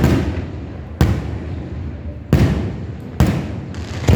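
Aerial fireworks shells bursting: a sharp boom about once a second, each trailing off in a long low rumbling echo.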